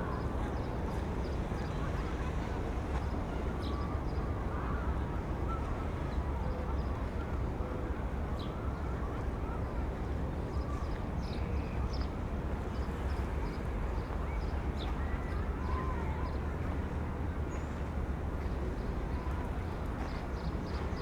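Outdoor waterfront ambience: a steady low rumble of wind and distant traffic, with scattered faint bird chirps and other small sounds on top.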